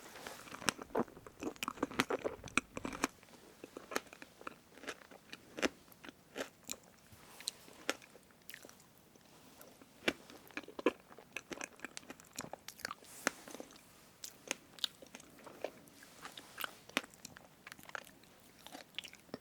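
Close-miked eating of strawberry whipped-cream cake: a fork working through the soft cake, with chewing and many small wet mouth clicks, busiest in the first few seconds.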